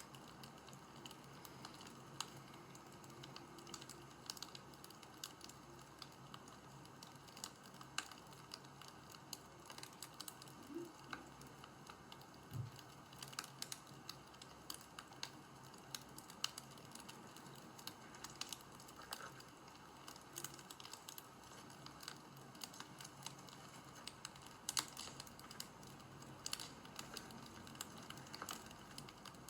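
Faint, irregular clicks and crackles, scattered a few at a time over a low steady hum.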